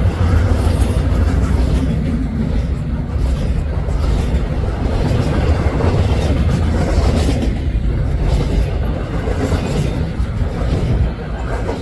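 Freight cars of a Canadian National intermodal train, autoracks and double-stack well cars, rolling past at speed with a steady low rumble of steel wheels on rail.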